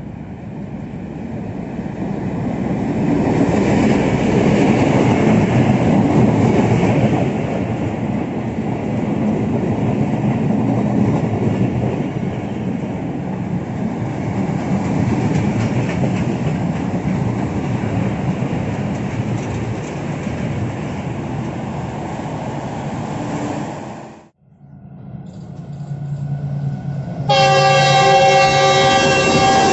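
A diesel-hauled passenger train running through a station, its coaches rumbling and clattering past on the track, loudest about four to seven seconds in. After a break, a second diesel locomotive approaches and sounds its multi-tone horn, steady, from about 27 seconds in.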